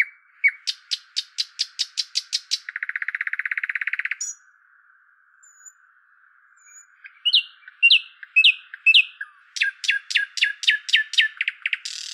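Songbird singing: quick runs of sharp chirps, a buzzy trill about a third of the way in, then after a short pause a few downslurred whistled notes and another fast run of chirps.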